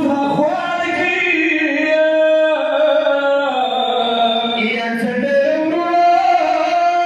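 Unaccompanied voice chanting a mourning lament (noha) in slow, drawn-out notes.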